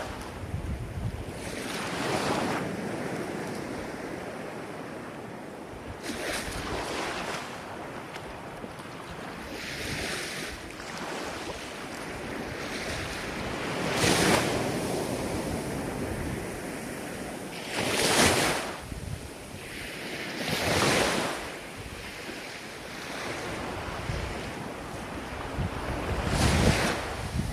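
Ocean waves breaking and washing on the shore, a new surge every few seconds over a steady rush of surf, with some wind noise on the microphone.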